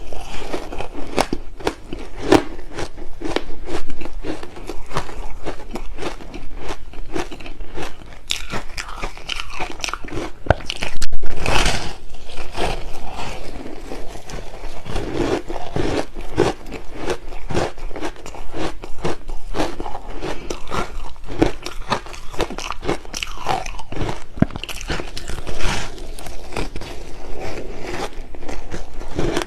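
Close-miked crunching and chewing of flavoured shave ice with passion fruit, a dense run of crackly bites and chews with one louder crunch about eleven seconds in.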